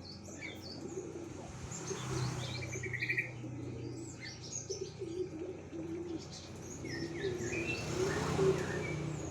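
Cinereous tits (gelatik batu) calling: many short, sharp chirps and quick trills, used as a lure call to draw wild birds of the species to answer. A low, repeated cooing runs underneath.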